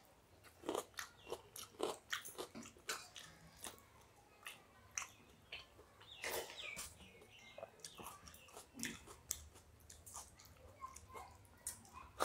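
Close-up eating sounds of people chewing watery rice and fried bitter gourd by hand: short, irregular wet smacks and clicks of mouths and fingers, with a slightly louder cluster about halfway through.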